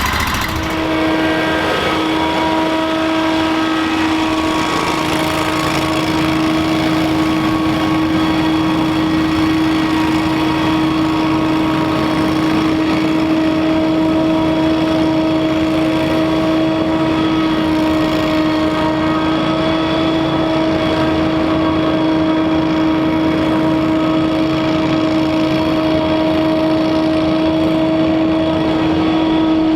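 Scag Windstorm stand-on debris blower running steadily, its engine drone carrying a strong steady whine from the blower fan.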